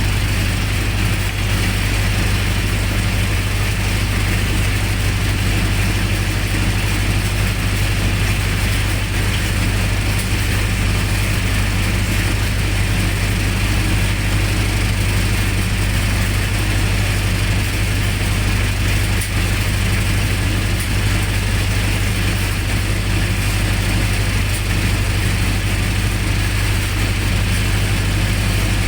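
Generator set's engine running steadily with a constant low hum.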